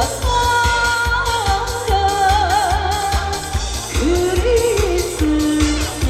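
Trot song performed live: a woman singing a melody with wide vibrato over a backing track with a steady beat.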